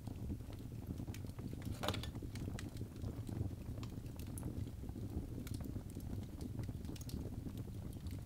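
Birch logs burning in a fireplace: a steady low rumble of the flames with irregular sharp crackles and pops, one louder pop about two seconds in.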